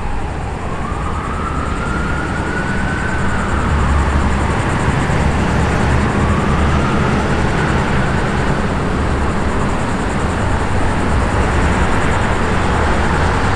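Emergency vehicle siren wailing in slow rises and falls, about two full cycles, over the loud low rumble of a vehicle's engine and road noise. The rumble grows louder and the wail sinks into it in the second half.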